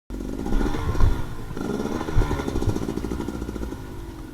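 Dirt bike engine revving up and down, starting abruptly, with two heavy low thumps, about a second in and again after two seconds; it slowly gets quieter.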